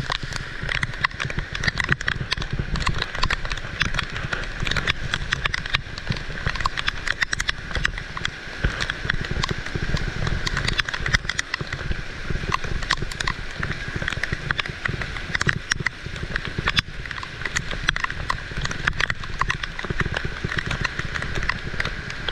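Heavy rain falling, a steady rush with dense, irregular sharp ticks of drops striking close by.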